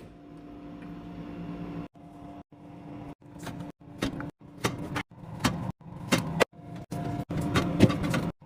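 A steady hum with sharp clicks and knocks of items being handled, cut into short clips with abrupt gaps of silence between them. The clips grow shorter and the cuts come faster toward the end.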